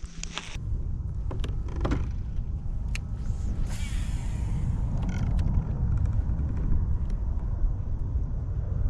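Wind buffeting the microphone: a steady low rumble that starts suddenly about half a second in, with a few faint knocks.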